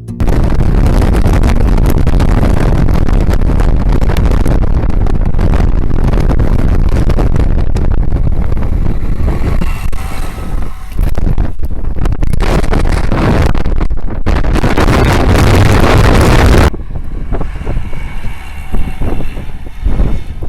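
Tsugaru Railway diesel train running past close by, a loud, steady rumble of engine and wheels that cuts off sharply about seventeen seconds in, leaving a quieter, uneven vehicle sound.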